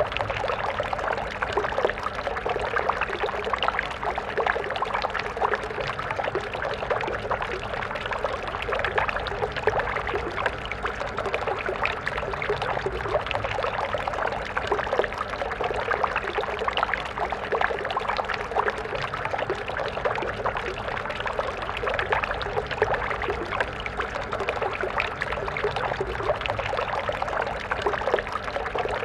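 Stream water flowing and splashing steadily over stones, a constant busy babble with no change.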